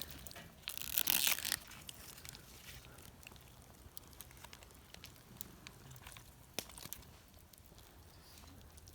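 A short crinkling rustle about a second in, then scattered faint clicks and ticks of cooking preparation.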